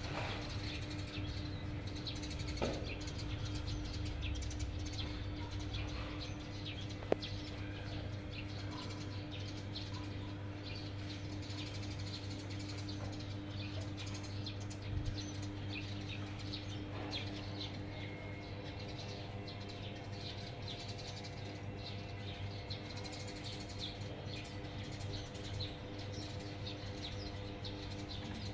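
Small birds chirping on and off over a steady low hum, with a single sharp click about seven seconds in.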